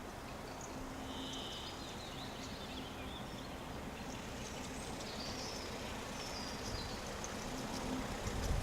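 Steady outdoor rushing noise with a faint low hum, over which birds chirp briefly a few times.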